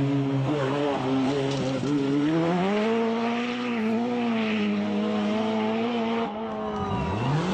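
Rally car engine running hard, its pitch sagging at first, then climbing and holding steady. It breaks off about six seconds in, and a new engine note begins rising near the end.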